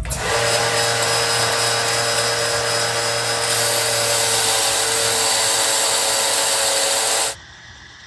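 An electric power tool running steadily at full speed with a constant motor whine. It cuts off abruptly about seven seconds in, leaving a quieter steady hum.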